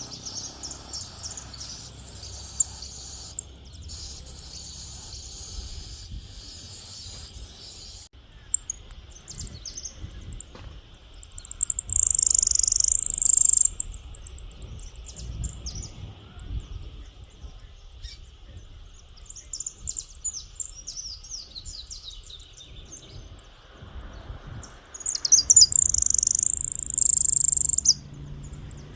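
Songbird singing: rapid high twittering for the first several seconds, then scattered chirps, with two loud bursts of song, one about twelve seconds in and one near the end.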